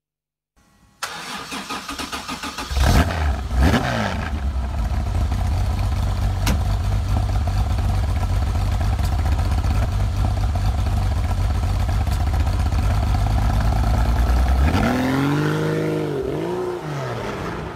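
Air-cooled Porsche flat-six engine cranking on the starter, catching about three seconds in with a couple of revs, then running steadily. Near the end it gets three quick throttle blips that rise and fall in pitch.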